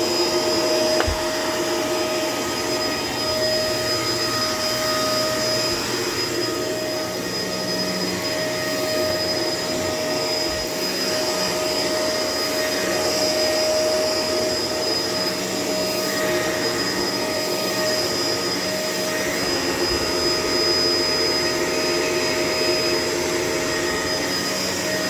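Vacuum cleaner running steadily while a floor is vacuumed, its motor giving a steady whine over the rush of air.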